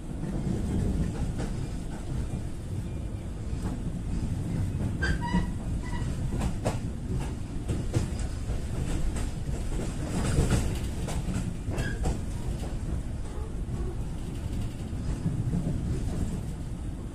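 Passenger train running at speed, heard from inside the coach: a steady low rumble of wheels on the track, with sharp clicks over rail joints through the middle stretch.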